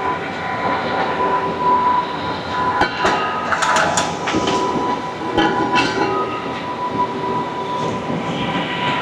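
Okuma CNC lathe running a cutting cycle on the box end of a steel casing pipe: a steady machine noise with a constant whine, and a cluster of sharp clicks about three to four seconds in.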